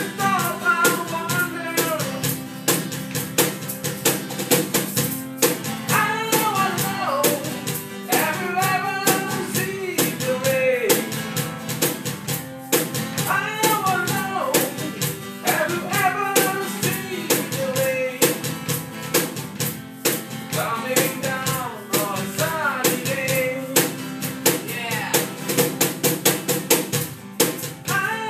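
Rock band music: drum kit with a steady beat, bass and guitar, under a lead melody line that bends and glides in pitch in phrases of a second or two.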